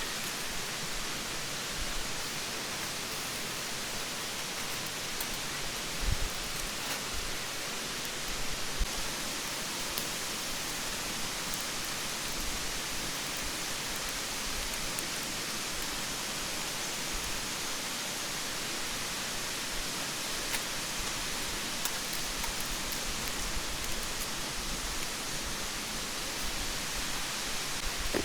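Mountain stream rushing, a steady even rush of flowing water, with a couple of faint soft knocks.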